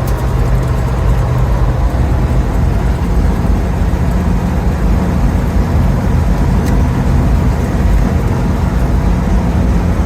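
Old pickup truck driving at road speed: a loud, steady drone of engine, road and wind noise heard from inside the cab.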